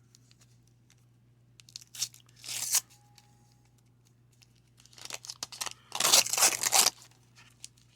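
Paper trading-card wax pack being torn open: short crinkling tears about two seconds in, then a longer, louder stretch of tearing and crinkling about five to seven seconds in.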